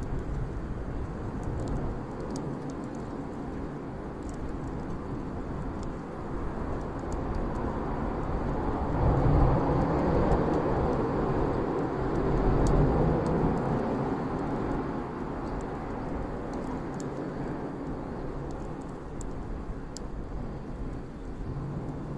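Bonfire burning: a steady low rushing that swells louder around the middle, with scattered sharp crackles and pops from the burning wood.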